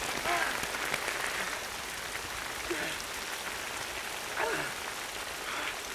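Heavy rain falling steadily in rainforest, with four brief arching voice-like calls above it.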